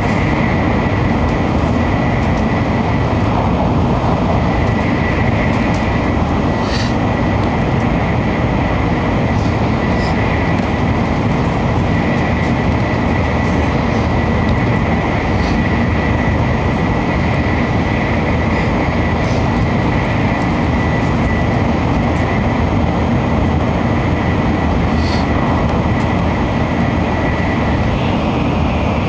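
Shinkansen bullet train running at speed, heard inside the passenger cabin: a steady loud rumble with a thin, steady high whine over it and a few faint ticks.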